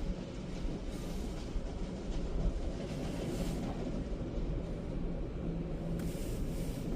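Steady low rumble inside a car cabin at an express car wash, with brief spells of hiss about three seconds in and again near the end.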